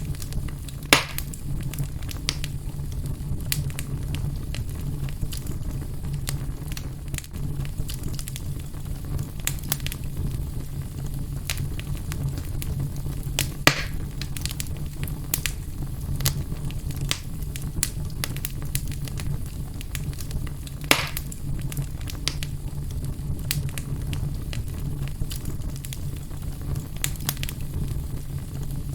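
Wood fire burning in a fireplace: a steady low rumble of flames with scattered crackles and three louder pops, about a second in, near the middle and about two-thirds through.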